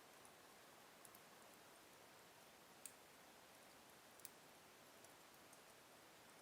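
Faint crackling of a slow-burning wood fire in a fireplace: a few sparse sharp pops, the two loudest about three and four seconds in, over a steady low hiss.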